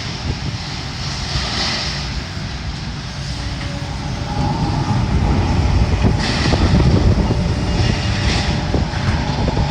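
Bobcat skid-steer loader's engine running under load as it picks up debris, a low rumble that swells about halfway through and sounds like a plane approaching, with a few light knocks near the end.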